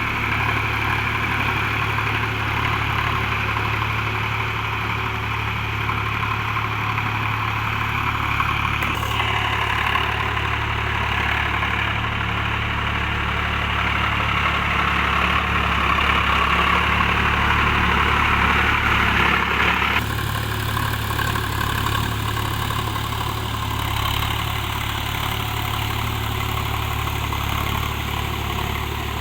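Sonalika DI 47 RX tractor's diesel engine running steadily, a low even hum under a noisier higher layer. The sound changes abruptly about nine and twenty seconds in.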